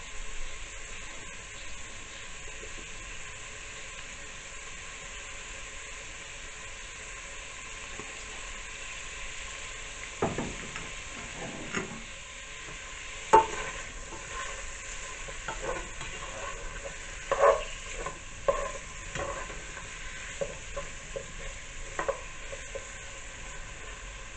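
Sausage and green peppers frying in olive oil in a pot, with a steady sizzle. From about ten seconds in, a spoon knocks and scrapes against the pot as the food is stirred.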